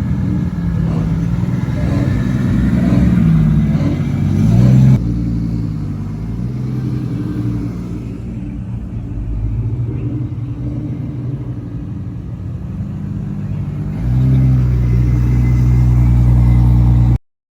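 Car engine running and revving loud, its pitch rising and falling, in a few joined clips that switch abruptly; the sound cuts off suddenly near the end.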